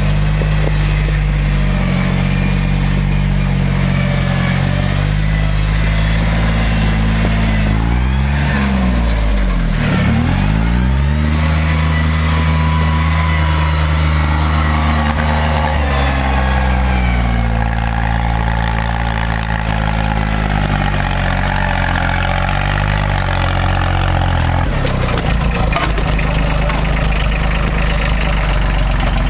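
Timberjack forwarder's diesel engine running steadily. Its revs drop and climb back about a third of the way in, then shift again. Near the end the even engine note gives way to a rougher rumble.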